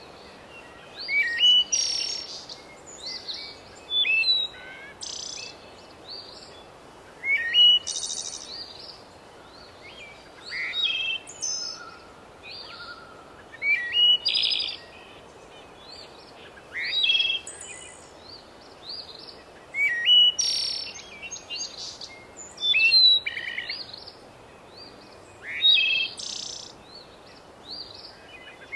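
Birdsong: short, high chirping and whistled phrases repeating every few seconds over a steady background hiss.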